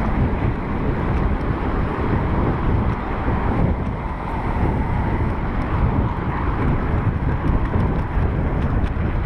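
Wind rushing over the microphone of a bicycle rider going about 20 miles an hour, a steady loud rumble with gusty buffeting.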